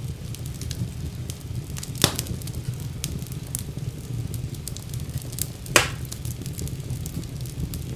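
Wood fire burning in a fireplace: a steady low rumble of flames with scattered small crackles, and two loud sharp pops about two seconds in and near six seconds.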